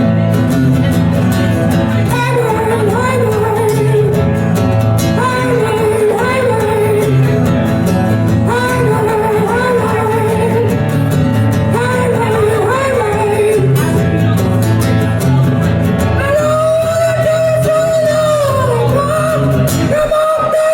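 A singer performing a cover song over guitar-led backing, in short rising-and-falling phrases, then holding one long high note in the last few seconds.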